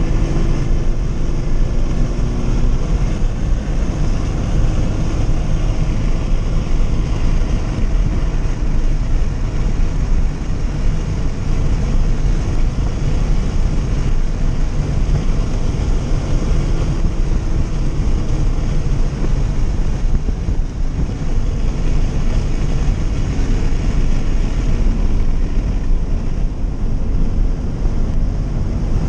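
Scion FR-S's 2.0-litre flat-four engine running at track pace, heard from inside the cabin under a steady, loud low rumble of wind and road noise.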